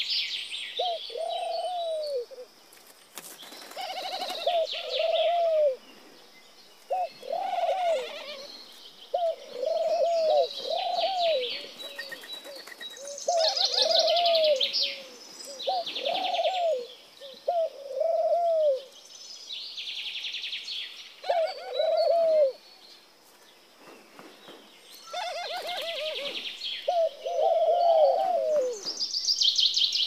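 Birds calling: a low whistled note that rises and falls, repeated in runs of two to four throughout, with higher chirps and buzzy trills in between.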